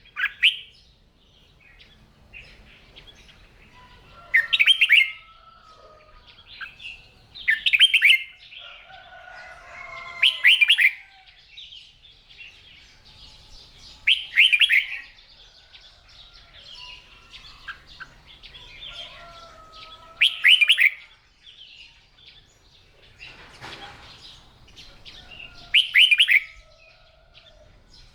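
Red-whiskered bulbul singing: loud, short warbled song phrases repeated about every three to six seconds, with softer chattering calls between them.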